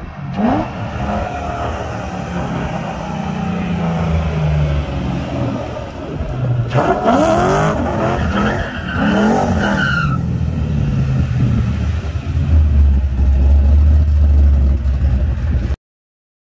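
Ford Mustang GT's 4.6-litre three-valve V8 running hard past, the revs rising and falling as it turns, with tyres squealing in the middle of the pass. A deep low exhaust rumble builds over the last few seconds, then the sound cuts off suddenly.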